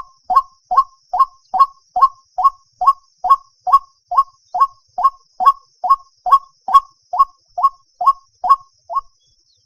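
White-breasted waterhen calling at night: a rapid, even string of short upward-sliding notes, about two and a half a second, that breaks off near the end.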